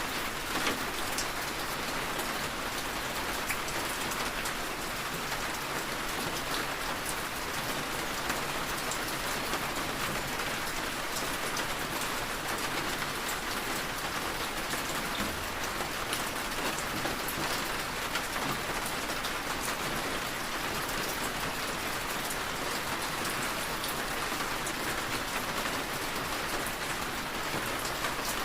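Steady rain tapping on a window: an even hiss with scattered drop ticks.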